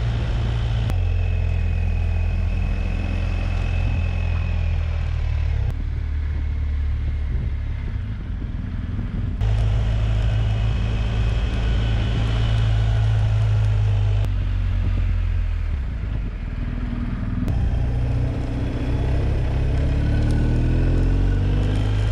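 BMW R 1250 GS Adventure's boxer-twin engine running under way, heard in several short cuts. Its pitch rises in the last few seconds as it revs up.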